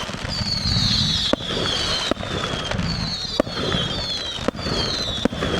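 A fireworks display: a string of high whistling fireworks, each whistle falling in pitch, about one a second and overlapping, with several sharp bangs between them.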